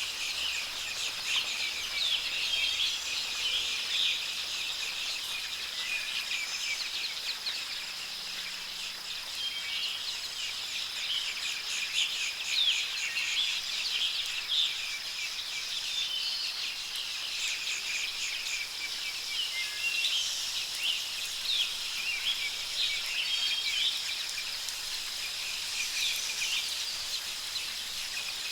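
Many small songbirds chirping and trilling continuously, overlapping one another, over a steady high hiss of soft rain.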